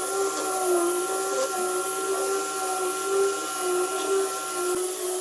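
An electric power tool's motor running steadily, its pitch wavering slightly; near the end one of its tones drops out with a click.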